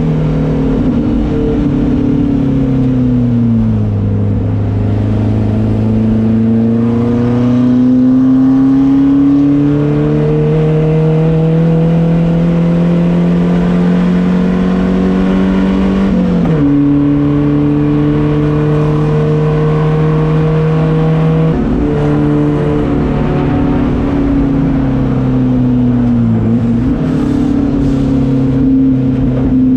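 Car engine working hard through the revs. The pitch sinks in the first few seconds, then climbs steadily, drops suddenly about 16 seconds in as at a gear change, changes again around 21 seconds and dips briefly near 26 seconds.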